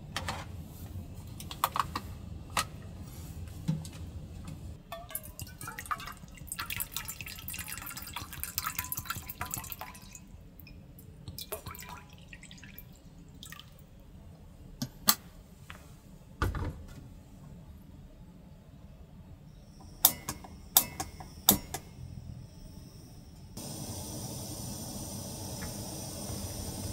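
Small clinks and knocks of things being handled, with a stretch of liquid trickling. A steady hiss comes in near the end.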